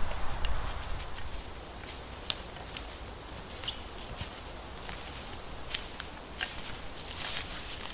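Dry leaves and twigs crackling and snapping in scattered light clicks, the kind made by footsteps or handling on a forest floor.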